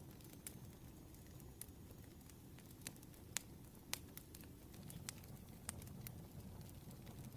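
Wood fire crackling faintly: scattered sharp pops and ticks over a low steady rumble, the loudest pops coming a little before the middle.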